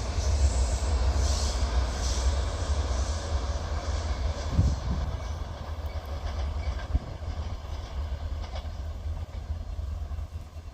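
A train running past on the track with a steady low rumble of wheels and a few faint clicks, slowly fading.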